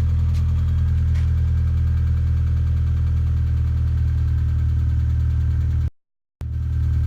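Vauxhall Zafira GSi engine idling steadily after a cold start. The sound cuts out completely for about half a second near the end, then the same idle carries on.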